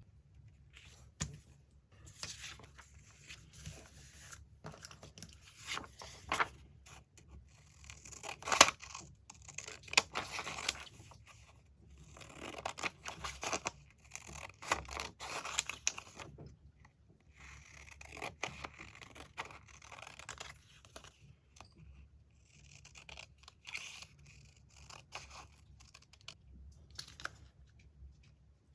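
Magazine paper being torn and cut by hand, in irregular bursts of one to a few seconds with short pauses between, and one sharper crackle about eight and a half seconds in.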